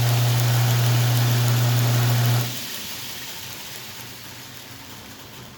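A DIY 2x72 belt grinder running under power on a belt-tracking test: the electric motor gives a steady hum under the hiss of the spinning sanding belt. It is switched off about two and a half seconds in and the noise drops sharply, then fades as the belt coasts down.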